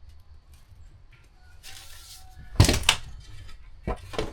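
A few knocks and a short clatter of something being handled and set down, loudest about two and a half seconds in, with two shorter knocks near the end.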